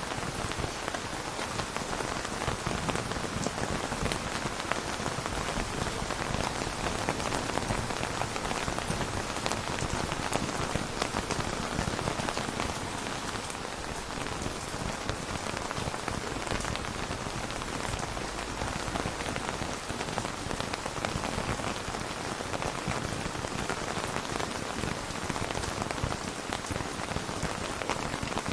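Steady rain falling and pattering on a surface, dense and even, with no thunder.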